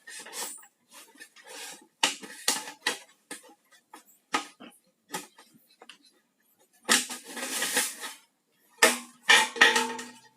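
Irregular knocks and taps from hand work on a bird cage, with a longer scraping sound about seven seconds in.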